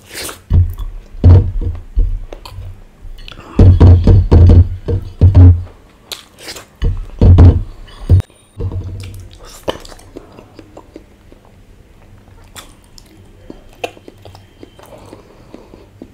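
Close-up chewing and wet mouth sounds of a man eating rice and boiled egg by hand, loud and irregular for the first eight seconds, then dropping to quieter smacks and clicks.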